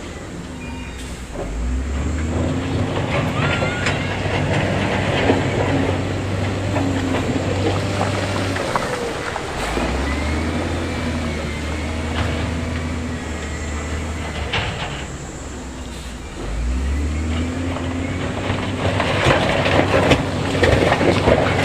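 Diesel engine of heavy earthmoving equipment working under load three times, each time holding for several seconds, with scattered clanks and rattling of stone; the clatter thickens near the end.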